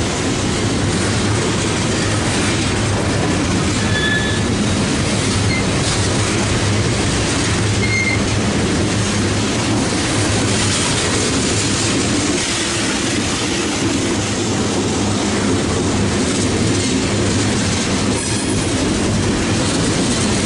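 Loaded coke hopper cars of a freight train rolling past: a steady rumble of steel wheels on rail, with brief faint wheel squeals about four and eight seconds in.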